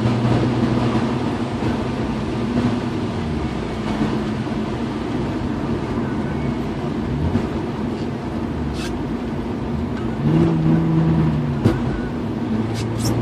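BMW E36 M3's straight-six engine running steadily while driving, over a constant rushing noise of rain and wet road. The engine note rises and shifts briefly about ten seconds in, and a few short high squeaks come near the end.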